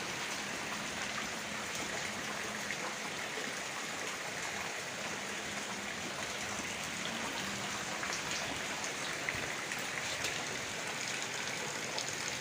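Steady hiss of water, like rain falling, with a few faint light clicks.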